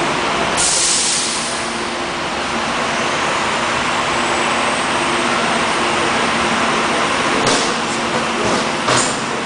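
Airport tram (automated people mover) running: a steady rumble and motor hum, with a burst of air hiss about a second in and a few clicks near the end.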